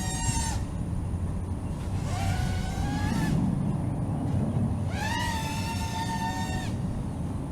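5-inch FPV racing quad's motors and propellers whining, rising in pitch and holding with each throttle punch, three times. The longest comes about five seconds in. A steady low rumble sits underneath.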